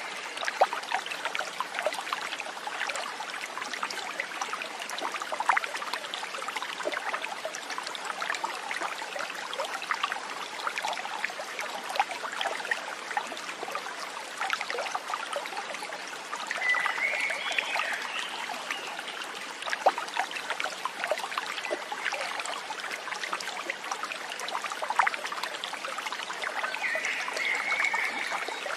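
Small stream trickling, a steady rush of water dotted with little splashes. A short high call rises over it about seventeen seconds in and again near the end.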